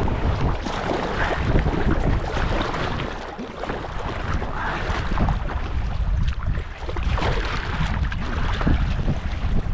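Strong wind buffeting the microphone, with water splashing and rushing around a kayak as it is paddled.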